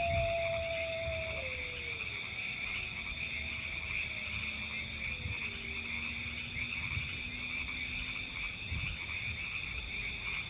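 A steady, high-pitched chorus of calling animals, with a low rumble underneath. A few faint tones glide down and die away in the first two seconds.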